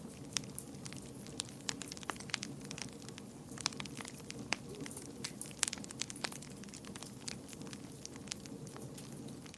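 Fire in a fireplace crackling: irregular sharp pops and snaps, several a second, over a steady low rush of the flames.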